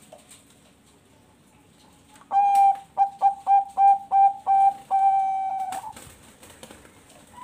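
Zebra dove (Bangkok perkutut) singing its cooing song: a long coo, then a quick run of about seven short clipped coos, ending on a long drawn-out coo that fades.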